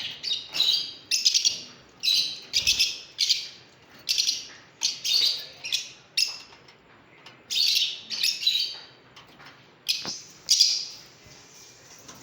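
Pet lovebirds giving a run of shrill, harsh chirps, about one or two a second, that stop near the end.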